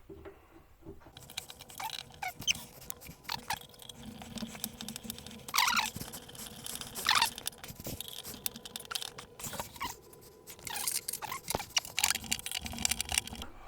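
Screws being turned in by hand with a screwdriver to fit hardware to a kitchen wall cabinet: irregular scraping clicks and rattles with a few short squeaks.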